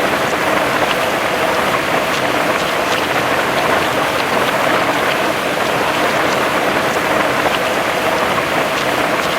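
Heavy rain falling steadily, a constant hiss with scattered drops ticking on a surface.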